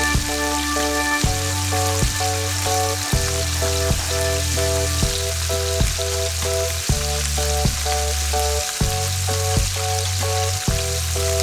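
Chicken feet deep-frying in hot oil, a steady sizzle. Background music with a bass line and a steady beat plays along with it.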